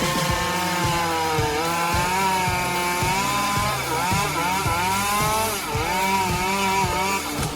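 Chainsaw running under load, its engine pitch sagging and recovering several times as it cuts into wood.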